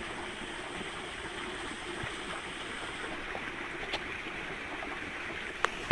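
Creek water running steadily, with two light clicks in the second half.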